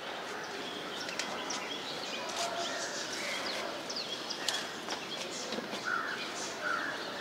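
Outdoor garden ambience: birds chirping faintly with a few short calls near the end, over light rustling and small clicks of hands picking among tomato plants.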